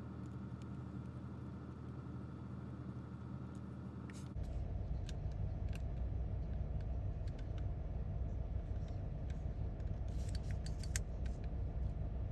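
Scattered light clicks and taps of small plastic toy parts being handled, with a cluster of clicks near the end, over a steady background hum that shifts abruptly to a louder hum about four seconds in.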